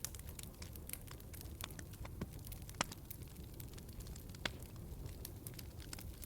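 Wood fire burning in a fireplace, crackling steadily over a low rumble of flame, with two sharper pops, one a little before the middle and one about three quarters of the way through.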